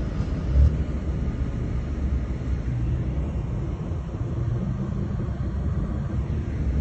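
Steady low rumble of vehicle and traffic noise.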